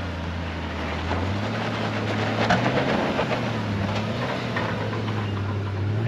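Off-road truck's engine running low and steady as it crawls up a rocky hill climb. Its pitch rises slightly about a second in, and a few faint knocks come through.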